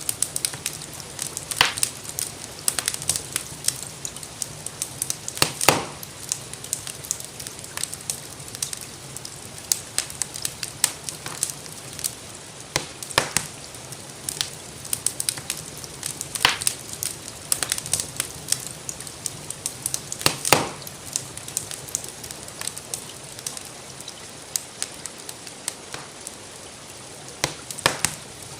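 Wood fire crackling, with irregular sharp pops and a few louder snaps, over a steady hiss of gentle rain.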